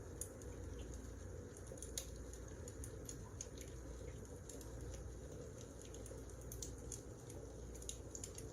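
Wood fire crackling faintly, with scattered sharp pops over a steady low rumble.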